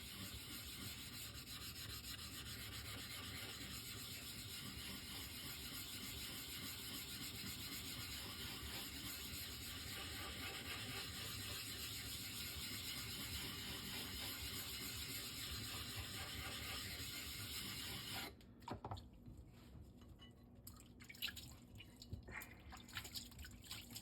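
Steady rubbing and water noise as a Shapton Rockstar 1000-grit whetstone is cleaned. It stops abruptly about 18 seconds in, followed by a few faint drips and small knocks.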